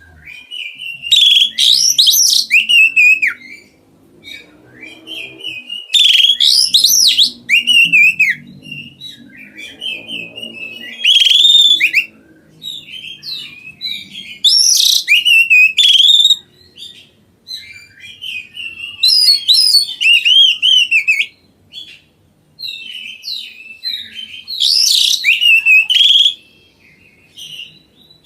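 A songbird singing loudly in repeated bursts of rapid, varied phrases, one about every five seconds with quieter calls in between.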